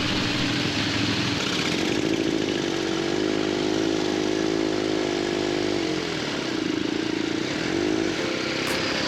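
Veteran motorcycle engine running as the bike rides off, its note wavering up and down through the middle, over steady wind and road noise.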